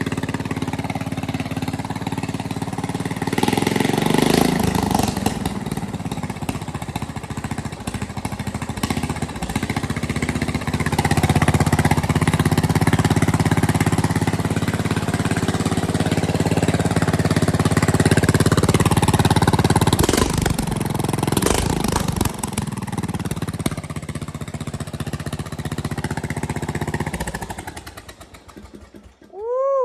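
Small single-cylinder-style lawn tractor engine, the Bolens race mower's, running through a homemade exhaust. It gets louder and softer as the throttle and load change, then dies away near the end.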